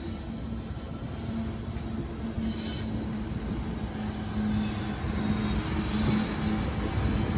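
Union Pacific freight train rolling past: the trailing diesel locomotives rumble by, then empty hopper cars follow, growing louder toward the end. A steady low tone comes and goes over the rumble.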